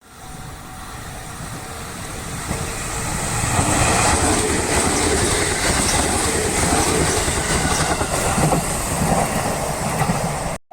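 Train passing close by: the running noise grows over the first three or four seconds, then stays loud with wheel clatter, and cuts off suddenly near the end.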